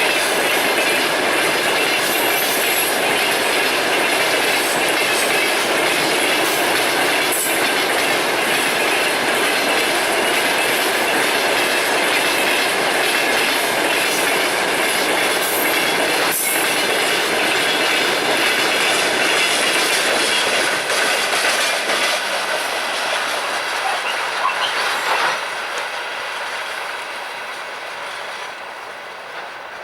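Freight train wagons rolling past: a steady rumble with the clickety-clack of wheels over rail joints. It fades away over the last several seconds as the train moves off.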